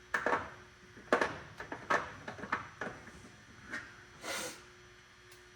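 Metal hand tools clinking and clattering as a socket is sorted out of a toolbox: a string of irregular sharp clicks, with a short scraping rustle about four seconds in.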